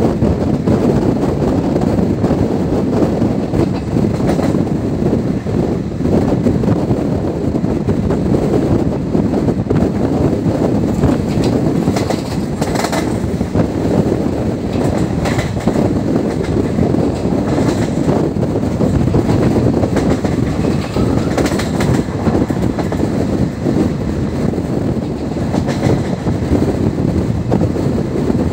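Indian express passenger train running along the track: a steady rumble of wheels on rails with clickety-clack. Sharper clicks come over rail joints about halfway through and again about three-quarters through.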